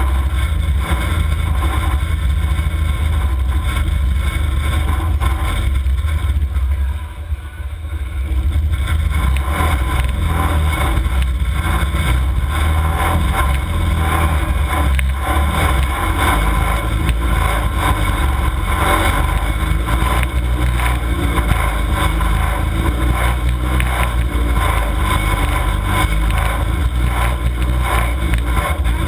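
Demolition derby car engine running loud and steady, with a brief drop in level about seven seconds in.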